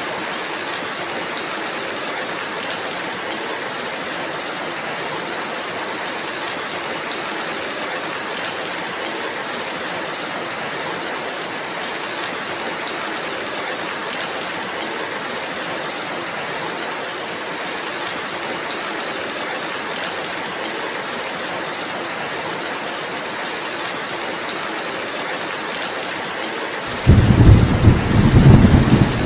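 Steady rainfall, an even hiss. Near the end a loud, low rumble of thunder breaks in suddenly.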